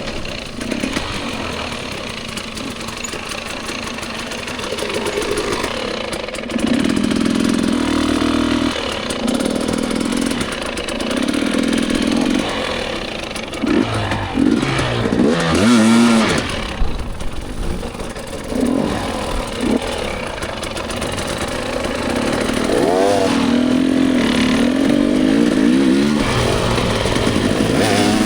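Dirt bike engine under way on a trail, its pitch rising as the throttle opens and falling back off it, stepping between held notes as it changes gear.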